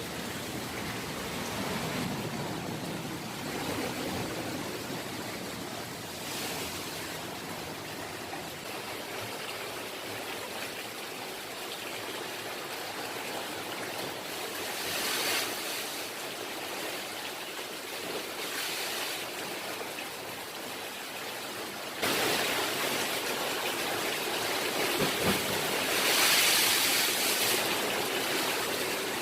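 Steady rush of water, swelling now and then and growing louder about three-quarters of the way through.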